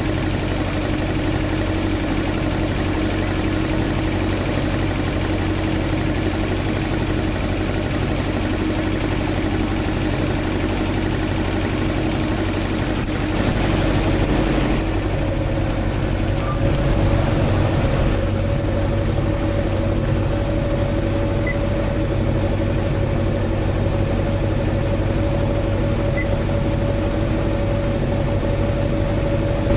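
Car engine idling steadily, the AE101 20-valve 4A-GE swapped into an AE86. About halfway through, a steady higher-pitched tone joins in and holds.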